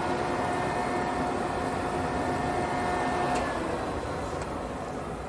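OKK MH-3V vertical milling machine's spindle and gear head running at 290 rpm, a steady hum with a whine over it. About three and a half seconds in the whine stops and the hum fades as the spindle winds down.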